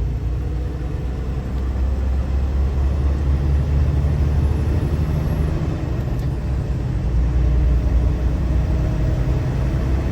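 A car driving along: steady low road and engine rumble heard from inside the cabin.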